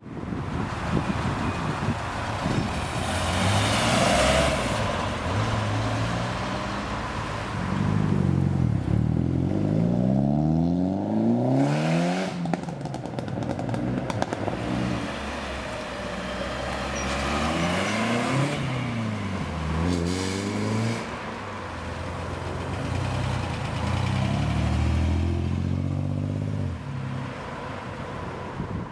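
Classic Ford cars' petrol engines revving and accelerating away, the engine note climbing and dropping several times.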